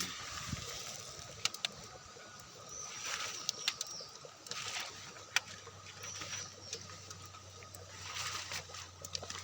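Rain falling, a steady hiss with scattered sharp clicks of drops striking, swelling in strength a few times.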